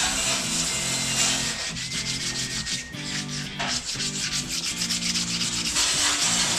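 Sandpaper rubbing back and forth on motorcycle parts in quick, repeated rasping strokes: a light 400-grit scuff-sanding to prep them for paint.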